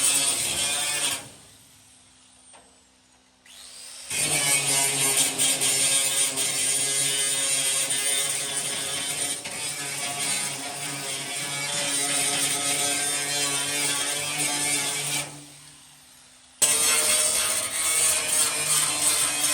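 A handheld power tool running steadily on metal. It stops about a second in, starting again about four seconds in, and stops once more near the end for about a second before starting up again.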